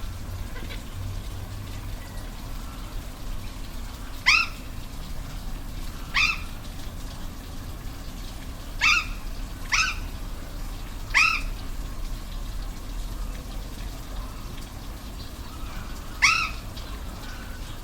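An animal gives six short calls, each dropping slightly in pitch, over the steady rush of a waterfall.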